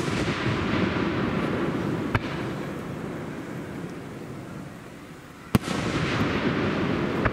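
Aerial firework shells bursting: a smaller bang about two seconds in and a loud one about five and a half seconds in. Each bang is followed by a long rumble that slowly fades, and the rumble of a burst just before carries through the first seconds.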